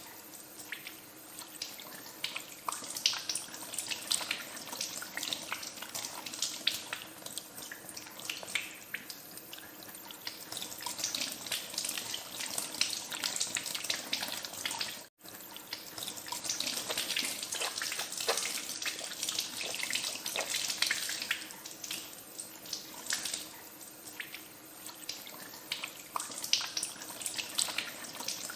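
Tap water running into a sink with hands being washed under it, a steady splashing with many small spatters. The sound drops out for an instant about halfway through.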